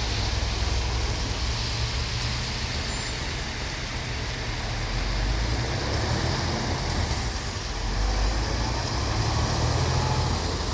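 Heavy truck engine running with road and traffic noise, a steady low rumble that swells slightly near the end.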